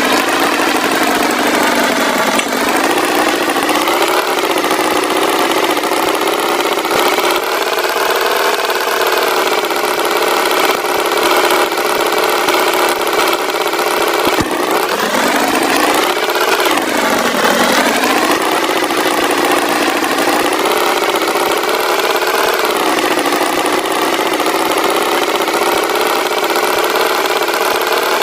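Tractor engine sound effect running continuously, its pitch dipping and rising again a few times, most deeply about fifteen to eighteen seconds in.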